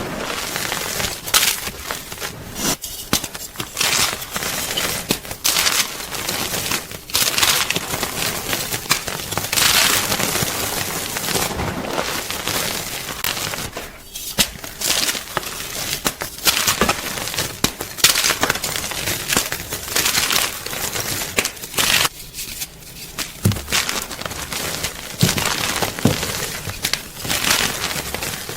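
Gym chalk being crunched: a close, dense run of irregular crackling crunches, with brief lulls.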